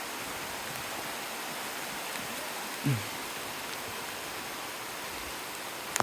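Steady hiss of rain falling on the forest. About three seconds in there is one short, low sound that falls in pitch.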